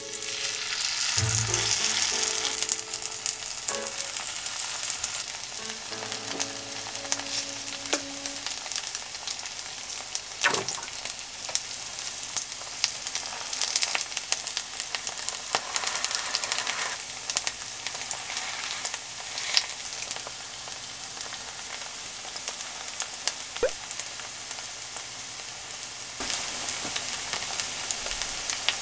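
Garlic chive and shrimp pancake batter frying in oil in a nonstick pan: a steady sizzle with crackles, and a few knocks as more batter is spooned in.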